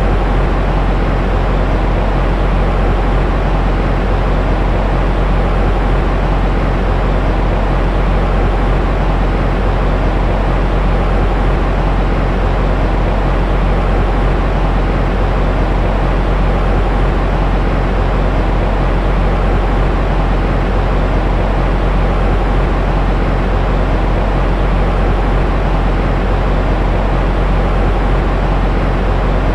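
Continuous white noise for infant sleep: an unchanging rushing hiss, heavy in the low end with a deep rumble underneath and thinning out toward the top.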